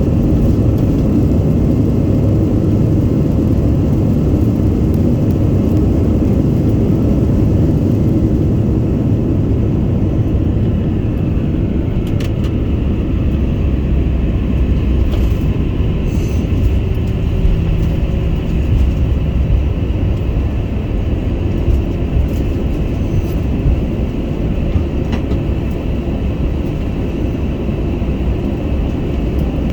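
Airbus A321 airliner rolling along the runway after touchdown, heard from inside the cabin: a steady, loud low rumble of engines and wheels that eases slightly as the aircraft slows.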